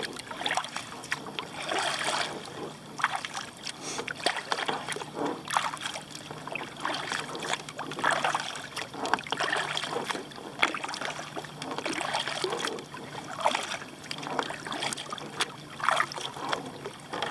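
Kayak paddle strokes: water splashing and dripping off the paddle blades, surging about once a second in an uneven rhythm. A faint steady low hum lies underneath for much of the time.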